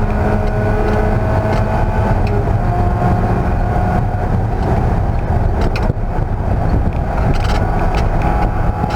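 Race car engine running hard at speed on a road course, its pitch climbing slowly over the first few seconds. About six seconds in there is a brief dip with a few sharp clicks.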